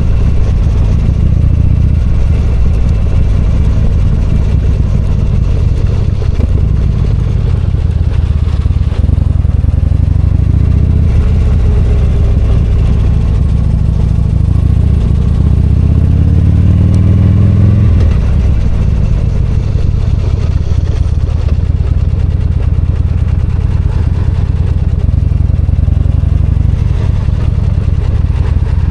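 V-twin motorcycle engine running on the move. About halfway through, the engine note climbs steadily for a few seconds as the bike accelerates, then drops off abruptly.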